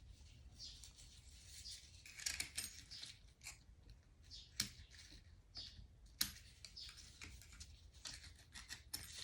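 Faint clicking and rustling of small metal engine parts and tools being handled, with a few sharper clicks.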